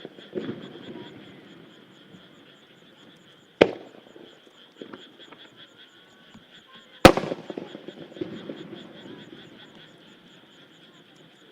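Aerial firework shells bursting one at a time: two sharp booms about three and a half seconds apart, each followed by a rolling echo that fades out. Underneath runs a steady, high-pitched chorus of frogs.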